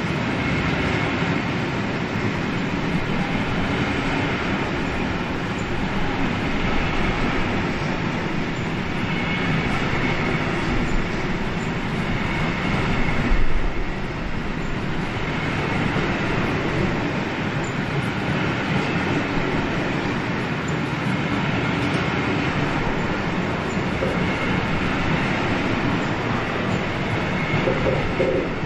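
Long freight train of stake wagons loaded with wrapped timber rolling past, its wheels running steadily on the rails, briefly louder about halfway through.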